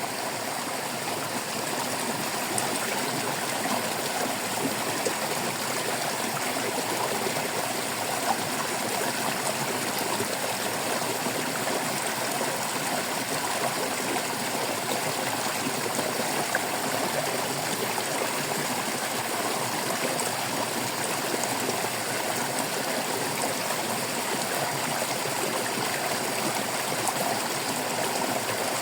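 Babbling stream: water flowing and splashing steadily over rocks, a continuous rushing with small gurgles and drips scattered through it.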